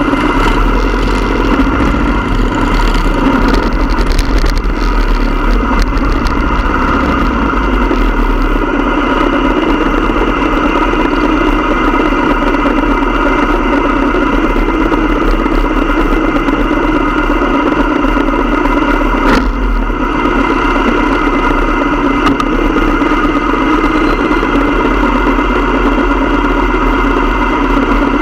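Motorcycle engine running loud and steady, holding one pitch without revving up or down.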